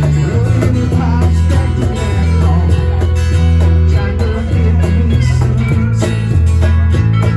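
Country band playing an instrumental passage with guitars and a steady bass line, no vocals.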